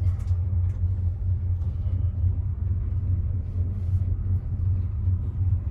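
Steady low rumble inside a tramway gondola cabin as it rides up its cable, with faint light ticks above it.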